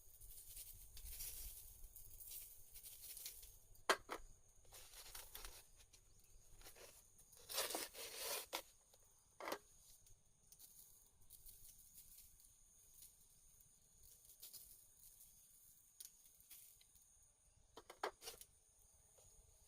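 Quiet scene with a few scattered sharp clicks and a short rustling, tearing-like burst about halfway in.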